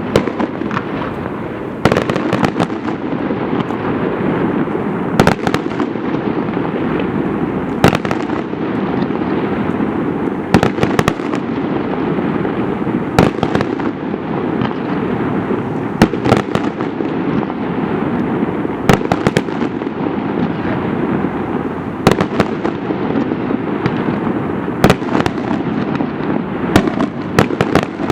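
Fireworks display: a continuous rumble and crackle of shells bursting, with sharp loud bangs every second or two.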